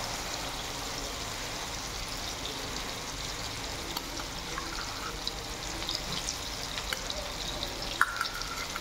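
Tomato masala with curd just added, sizzling in a pan: a steady frying hiss with scattered small crackles, and one sharp click about eight seconds in.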